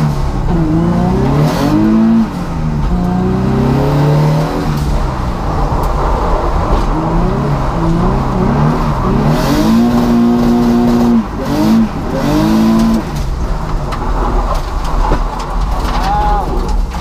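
Drift car's engine revving up and down over and over as the throttle is worked through a drift run, with the revs held steady for about a second midway before falling away sharply.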